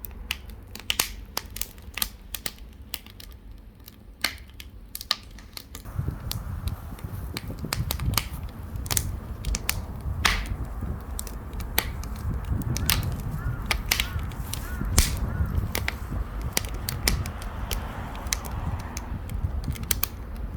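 Wood fire crackling and popping in a wood-burning stove, with sharp irregular snaps throughout. A low rumble comes in about six seconds in and carries on under the crackle.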